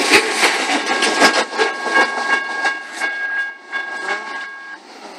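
Freight train of enclosed autorack cars rolling past: wheels clicking over the rail joints, the sound fading as the end of the train passes and moves away. A thin steady high tone runs along with it and stops near the end.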